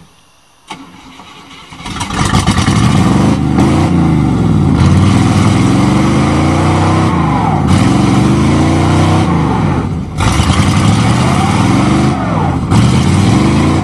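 Chevrolet 305 small-block V8 of a 1988 Chevy pickup revved hard in mud, starting about two seconds in, its pitch climbing and dropping again and again as the revs are held up.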